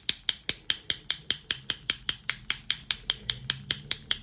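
Rapid, perfectly even mechanical clicking, about seven clicks a second.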